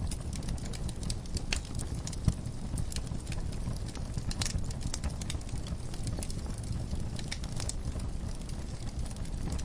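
Wood burning in a fireplace, crackling: irregular sharp pops and snaps over a low steady rumble of the flames, with one louder pop about two seconds in.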